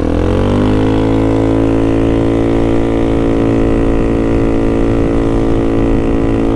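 Honda Navi's small single-cylinder engine pulling away, its pitch rising over the first second and then holding steady as the bike rides on.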